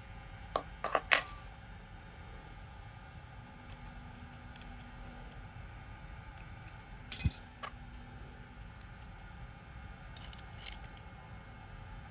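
Small metal parts and hand tools clinking and clicking as they are handled, in three short clusters: a few clicks near the start, the loudest clatter about seven seconds in, and two more clicks about ten seconds in.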